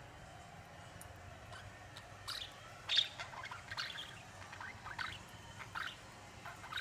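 Budgerigars chirping in short, quick chirps that start about two seconds in, the loudest about a second later.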